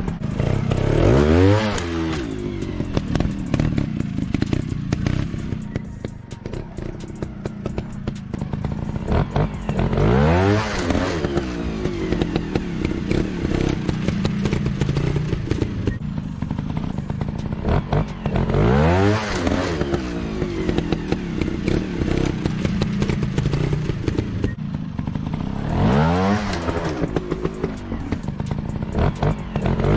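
Motorcycle engine running, revving up sharply four times, roughly every eight seconds, between stretches of steadier running.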